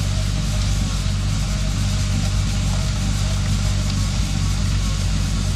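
Engines of a truck-mounted hydraulic snowblower rig running steadily, a low even drone under a loud rushing noise that does not change.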